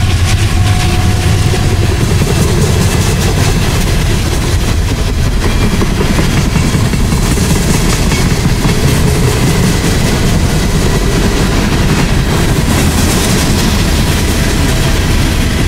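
Loud, steady sound of a long mixed freight train rolling past close by, its cars' steel wheels running on the rails.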